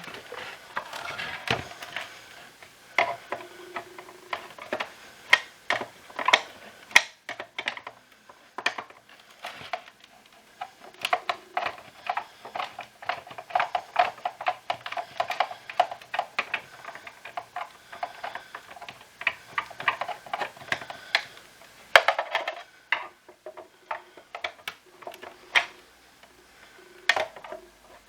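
Plastic parts of a Shark cordless vacuum cleaner being handled and taken apart: irregular clicks, knocks and rattles of plastic and small metal parts, with a stretch of denser scraping midway.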